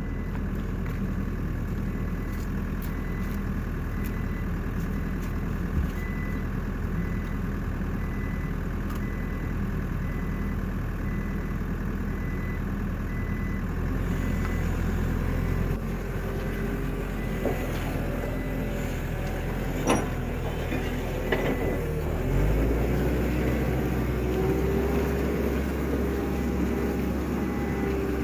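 A heavy machine's engine running steadily. Its pitch and load shift about halfway through and again near the end, where a rising whine comes in. A faint repeated beep, a few sharp clicks, and knocks can be heard alongside.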